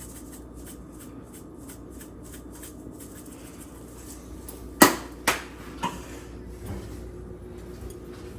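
Kitchen clatter over a steady low hum: three sharp knocks in quick succession about five seconds in, the first the loudest.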